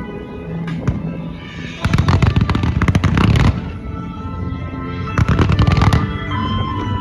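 Fireworks display: quick volleys of shells bursting and crackling in two dense clusters, around two seconds in and again around five seconds in, over a music soundtrack played through the show's loudspeakers.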